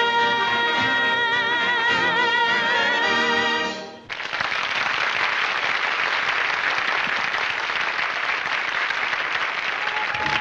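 A woman's voice holds the song's final high note with vibrato over an orchestra. The note cuts off about four seconds in, and applause follows.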